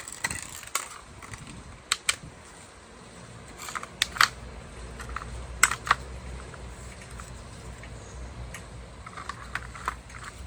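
Sharp, scattered clicks and knocks of door lock actuator parts being handled and worked loose inside a car door, several strong snaps among lighter taps.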